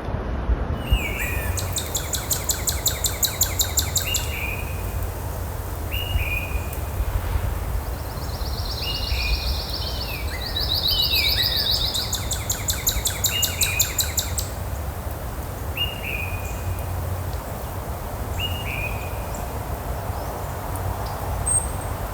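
Birds calling: short downward-slurred chirps repeated every second or two, with high rapid buzzing trills in stretches near the start and again in the middle, over a low steady rumble.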